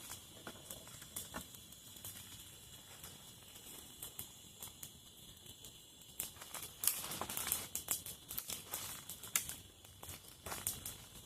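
Irregular crackling and rustling of dry material such as leaves or twigs, sparse at first and much denser from about seven seconds in.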